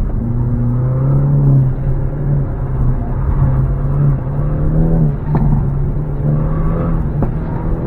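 Hyundai Elantra N's engine, heard from inside the cabin, working hard through an autocross run, its pitch rising and falling with throttle and shifts. A couple of sharp clicks come about five and seven seconds in.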